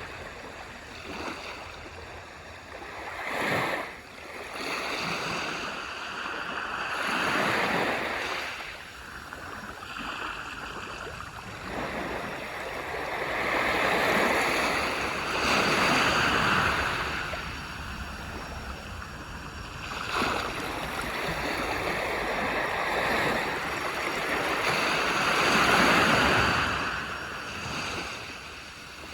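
Waves breaking and washing up on a beach, the surf surging and falling back every few seconds as a rushing hiss.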